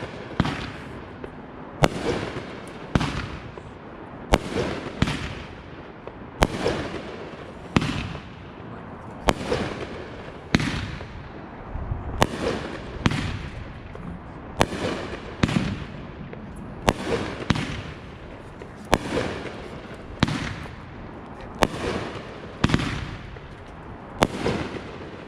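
Consumer aerial fireworks going off in a steady series, a sharp bang roughly every second, each trailing off into a short crackle.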